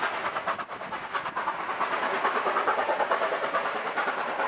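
Rolling noise of a steam-hauled passenger train's carriages on the rails as the last carriage passes close by and the train draws away. There is a steady rumble and rattle of wheels on track, with a short dip about a second in.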